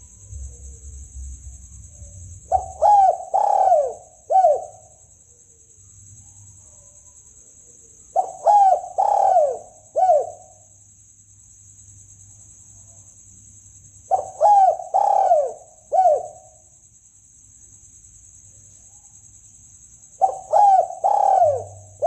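Spotted dove (tekukur) cooing: four repeated phrases about six seconds apart, each of two close coos and a short final note, as used for a hunting lure call.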